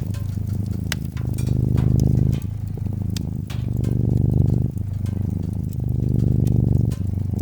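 Domestic cat purring steadily, the purr swelling and easing with each breath about every two and a half seconds, with the scattered snaps and pops of a crackling wood fire over it.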